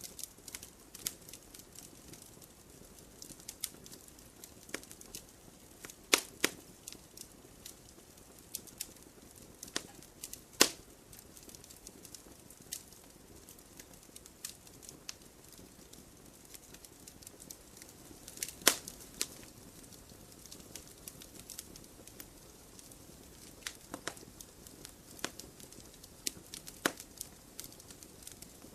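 Wood campfire crackling: a faint steady hiss with scattered small crackles and a few sharp, louder pops, around six, ten and eighteen seconds in.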